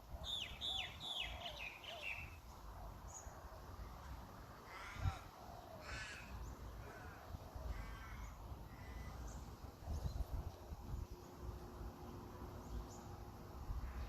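Birds calling: a quick run of short, harsh notes that fall in pitch near the start, then a few more scattered calls, over a low rumble.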